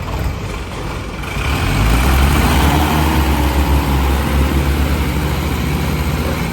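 Mahindra 575 tractor's diesel engine revving up about a second in and then running hard at high revs, as the stuck tractor tries to pull free.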